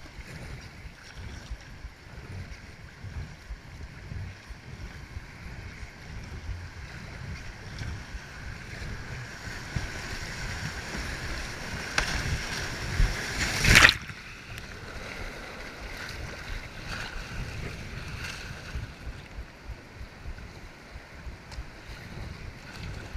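Rushing creek whitewater with wind buffeting the microphone. The water noise builds toward the middle, where one loud, sudden burst of water noise peaks about fourteen seconds in, then settles back.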